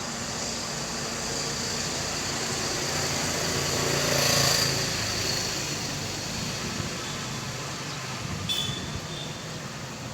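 Steady outdoor street-traffic noise, with a vehicle passing that swells and fades about four seconds in, and a short high chirp near the end.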